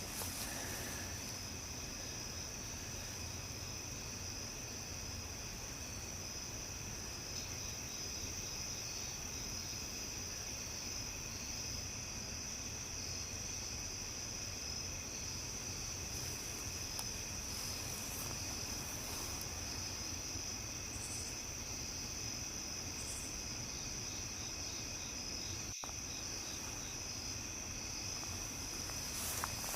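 Chorus of crickets trilling steadily, several overlapping pitches, over a low, even background rumble, with a split-second dropout near the end.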